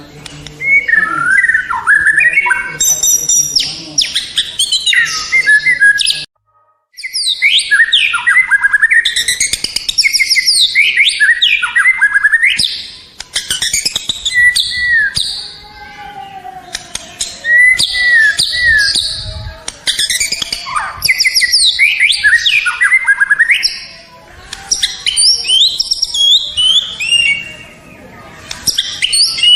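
White-rumped shama (murai batu) singing loud, varied phrases of sweeping whistles and rapid chattering notes, with short pauses between phrases. The song cuts out for under a second about six seconds in.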